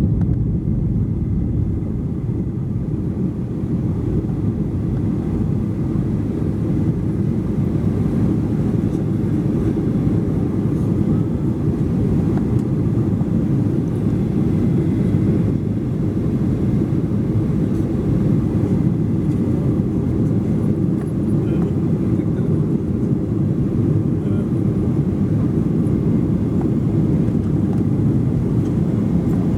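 Steady, even rumble of a Boeing 737-800 airliner's engines and airflow, heard inside the cabin.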